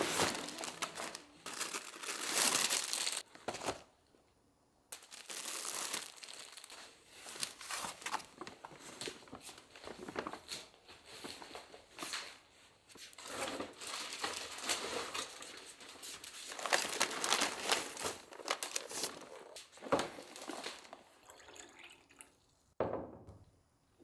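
Crinkling and rustling of plastic packaging being handled, in irregular bursts with small clicks and a short pause a few seconds in.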